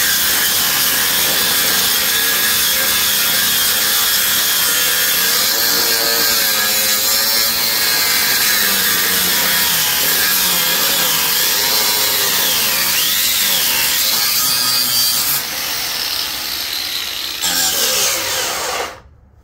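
Reciprocating saw (Sawzall) cutting through metal of a scrap transformer, running continuously with its pitch wavering up and down as the blade loads, then stopping just before the end as the cut goes through.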